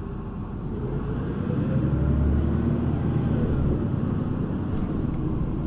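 City bus engine and drivetrain running as the bus drives between stops, heard inside the passenger cabin; the engine note rises and the sound swells about two seconds in, then settles.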